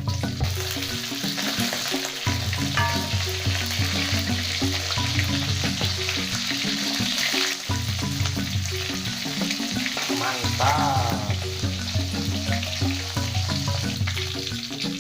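Hot oil sizzling steadily as meat deep-fries, with background music carrying a repeating bass line.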